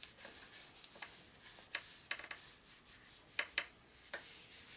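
Irregular rubbing and scraping strokes on a machined metal part, with a few light ticks.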